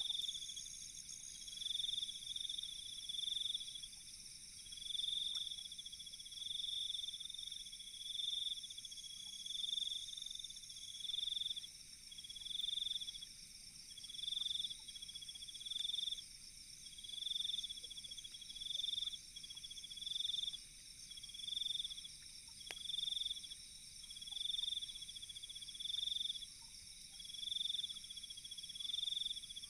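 Night insect chorus: a cricket-like insect chirping in short repeated trills about every second and a half, over a steady high buzz of other insects. A few faint clicks come through underneath.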